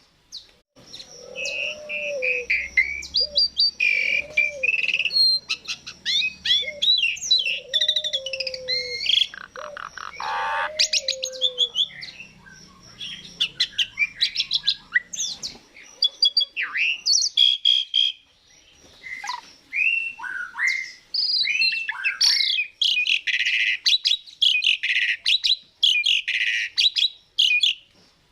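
Asian pied starling singing a busy, varied song of whistles, chatters and slurred notes, with a quick rattle about ten seconds in. Under the first half, a lower falling note repeats every second or two. There are brief lulls around the middle.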